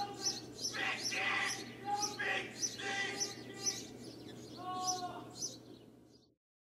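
Songbirds chirping: a high, sharp chirp repeated about twice a second, with lower whistled calls now and then. The sound cuts off suddenly near the end.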